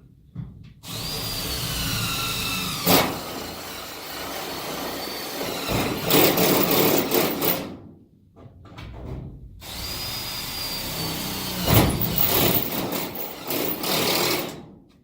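Power drill boring holes in two runs of several seconds each, separated by a pause of about two seconds. The motor's whine drops in pitch as it bites, and there are sharp knocks and rattles as the bit works through.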